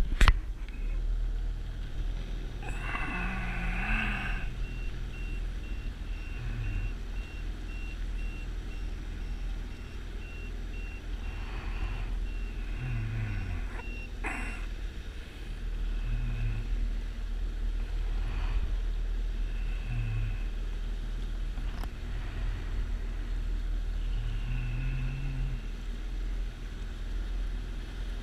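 A vehicle's engine running, with a reversing beeper sounding in a steady run of short, regular beeps for about ten seconds as it backs up. A brief louder tone comes about three seconds in, and the engine note rises and falls several times.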